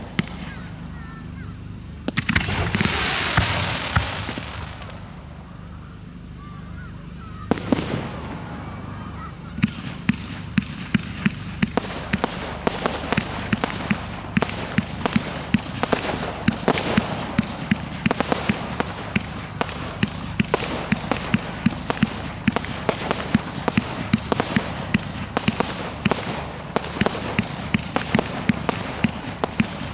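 Professional fireworks display. A loud hissing burst comes a few seconds in, then a single bang, then from about ten seconds on a rapid, dense barrage of bangs and crackles, several a second.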